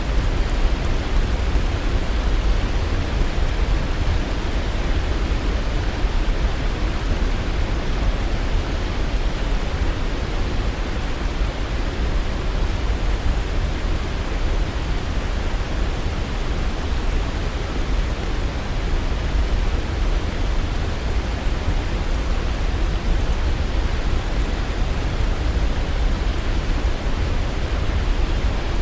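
Waterfall: water falling and rushing in a steady, unbroken roar of noise, strongest in the low end.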